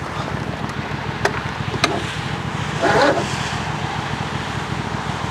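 Lawn tractor engine being cranked over by its starter, a steady rapid low chugging, with a couple of sharp clicks and a louder burst about three seconds in. The laboured turning-over is what the owner takes for a weak starter or valves needing adjustment.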